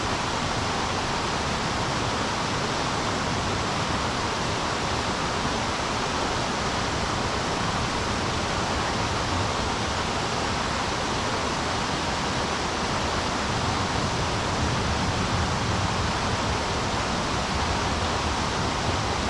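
River current rushing, a steady unbroken water noise that swells slightly in its low end about three-quarters of the way through.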